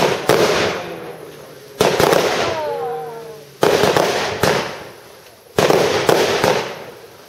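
Aerial fireworks bursting one after another, about every two seconds, some in quick pairs, each bang echoing away over a second or more.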